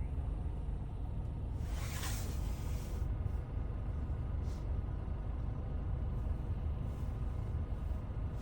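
Steady low road and engine rumble of a car, heard from inside while driving, with a brief rushing hiss about two seconds in.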